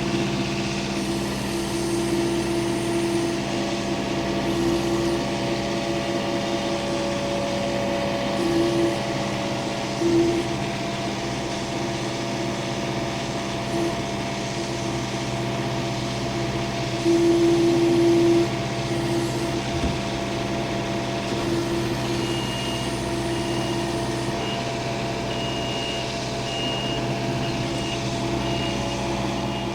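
Engine of a log-moving machine running steadily, briefly louder under load about two thirds of the way in, with a reversing alarm beeping repeatedly near the end.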